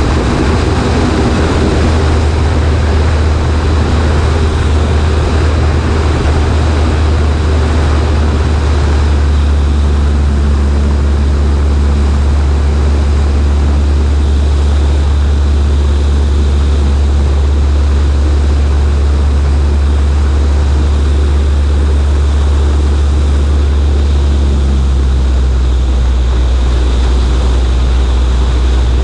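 Cessna 140A's propeller and engine running steadily in cruise flight, a loud low drone under a rush of wind across the wing. About 25 seconds in, the engine note steps slightly lower.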